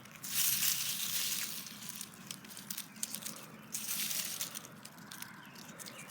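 Rustling and crunching of dry vegetation, irregular and loudest in the first two seconds.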